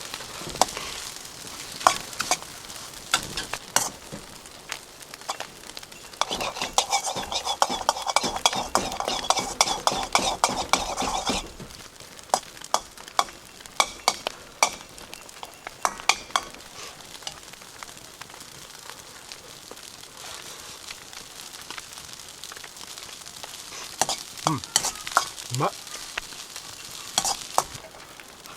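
Fried rice sizzling in a wok over a campfire as it is stirred, a utensil repeatedly knocking and scraping against the pan. The stirring and sizzling are densest from about six to eleven seconds in, then ease to occasional knocks, with another flurry near the end.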